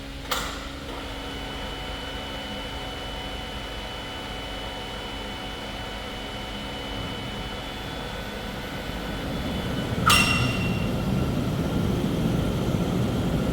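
A steady mechanical hum that grows louder in its second half, with a light metallic click at the start and a loud metal clank that rings briefly about ten seconds in.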